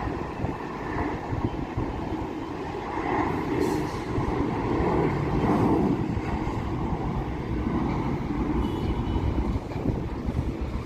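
Jet airliner engines: a steady rumbling roar that swells slightly around the middle.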